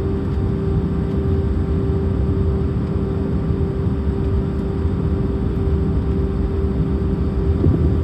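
Cabin noise inside an Airbus A319: a steady low rumble of the engines with a constant hum tone.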